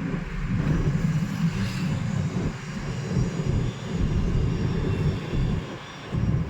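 Car driving on the road: a steady low rumble of engine and road noise that dips briefly near the end.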